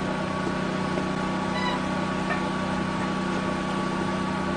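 Steady low mechanical hum with a constant pitch, unchanging throughout.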